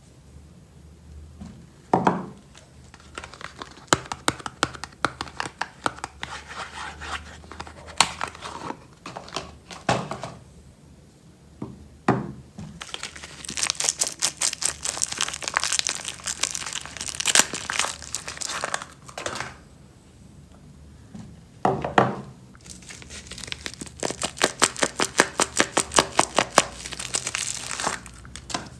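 Soap bars being unwrapped: packaging crinkling and tearing in quick runs of crackles, with a few heavier knocks now and then.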